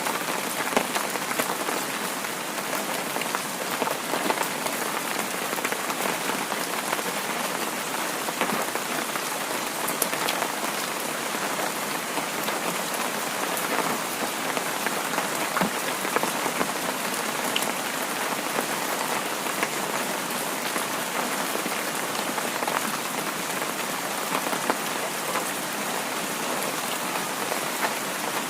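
Heavy rain falling steadily, a dense hiss of drops with fine pattering ticks throughout.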